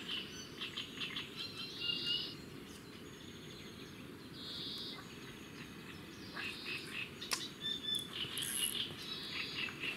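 Birds chirping and calling in short, scattered phrases over a steady low background hum, with an occasional sharp click.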